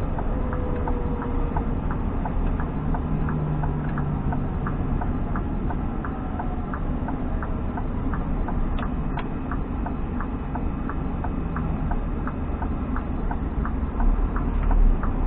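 Inside a Scania G460 truck's cab: the diesel engine drones steadily while the turn-signal indicator ticks evenly, about three ticks a second. A low thump comes near the end.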